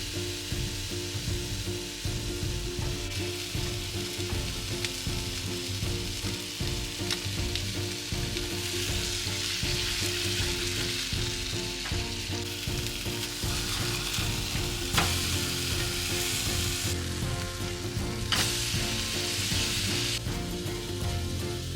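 Food frying in a pan, a steady sizzle that swells and eases in stretches, with a few sharp utensil taps against the pan.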